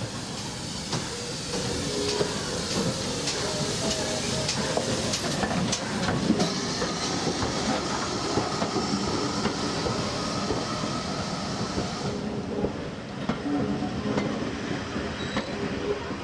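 Steam-hauled train running on the line, its wheels clattering over the rail joints with a thin squeal from the wheels.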